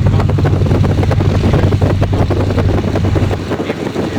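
T-6 Harvard's Pratt & Whitney R-1340 nine-cylinder radial engine running, a steady low pulsing drone heard loud through the open canopy; it eases slightly about three and a half seconds in.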